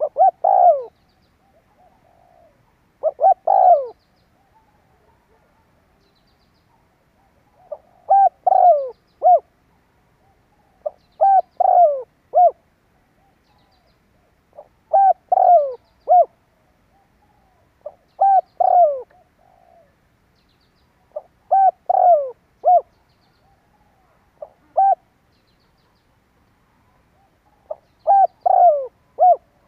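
Spotted dove cooing. It repeats a phrase of three or four low, falling coos about every three to four seconds, the territorial call that is played to lure wild males.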